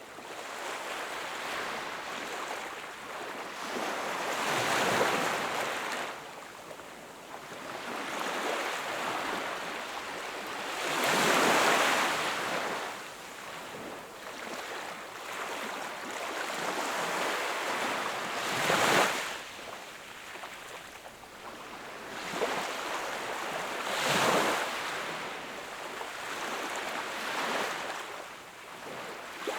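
Small sea waves breaking and washing on a shore, in a steady hiss with louder surges about every five to seven seconds as each wave comes in.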